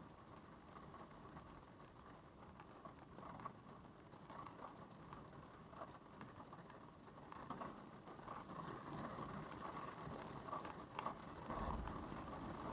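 Tornado storm wind and rain: a rushing noise full of small pattering crackles that grows louder through the second half, with a brief low rumble near the end.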